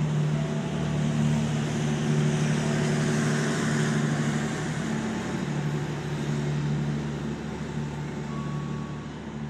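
Diesel-hauled passenger train (CC 203 locomotive) pulling out and rolling away: a steady low diesel hum under a rushing wheel-and-rail noise, fading toward the end as the train moves off.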